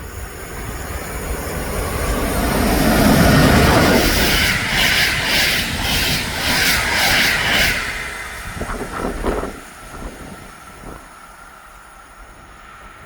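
Train passing through a railway halt: a rumble swells as it approaches, then a quick run of wheel clacks over the rail joints, and it fades away about ten seconds in.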